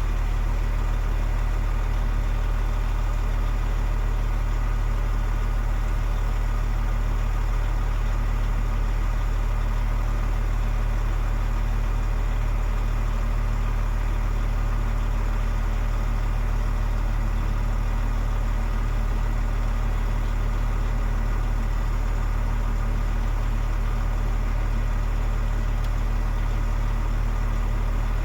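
DAF XF 105.460 truck's diesel engine idling steadily at an even, unchanging pitch.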